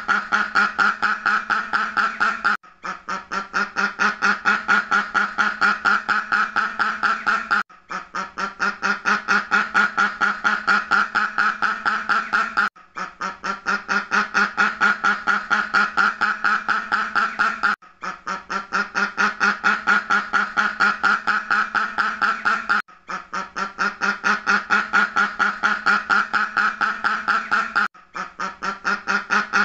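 A duck quacking in a fast, even series, about four or five quacks a second, with a short break roughly every five seconds.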